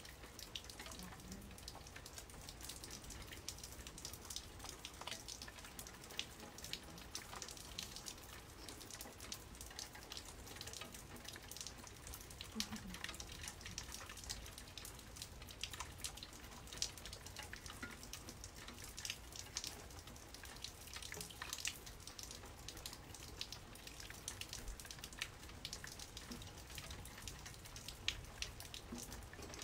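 Rain falling during a thunderstorm, heard as faint, irregular pattering and dripping of drops.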